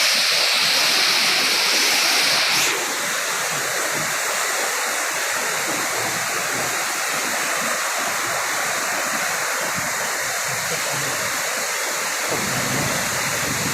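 Heavy rain pouring down in a steady, dense hiss. About three seconds in, the highest part of the hiss drops away suddenly and the sound turns a little quieter; near the end a low rumble joins it.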